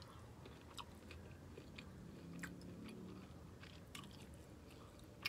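Faint close-miked chewing of a mouthful of sauce-dipped food, with small wet mouth clicks scattered through it.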